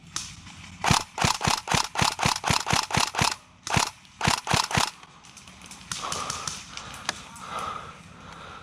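Airsoft gun firing a quick string of single shots, about four a second, then a few more after a short pause. Fainter scattered shots follow.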